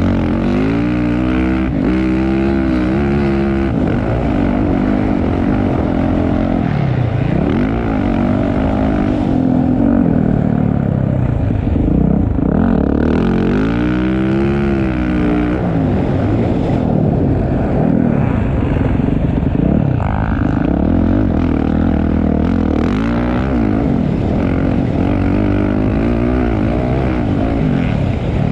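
Motocross dirt bike engines racing, revving up and falling back again and again as the riders work through the gears.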